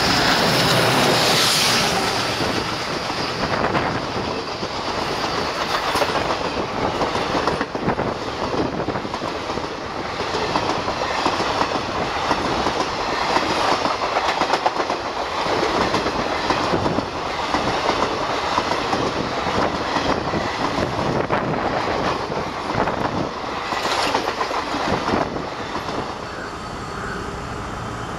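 A diesel-hauled passenger train passing close by. The trailing ALCO diesel locomotive goes by at the start, the loudest part, then the coaches' wheels clatter steadily over the rail joints, easing off a little near the end.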